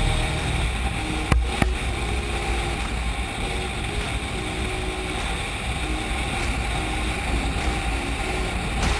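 Motorboat under way: a steady low engine rumble and water noise, with wind buffeting the camera microphone. Two sharp knocks come about a second and a half in.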